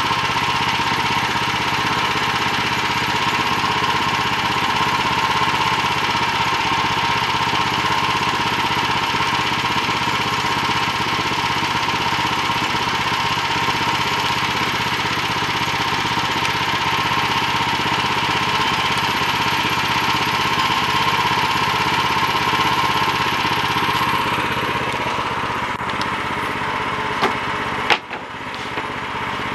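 Engine-driven bandsaw sawmill running steadily with a strong, even tone as it saws through a log. About three quarters through the sound eases off, and a few sharp knocks follow near the end.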